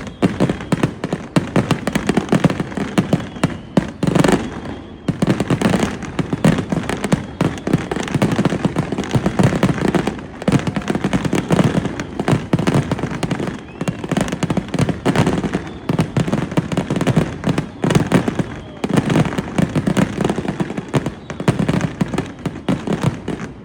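Aerial fireworks display: a dense, continuous barrage of bangs and crackles, easing briefly about four seconds in and again near eighteen seconds.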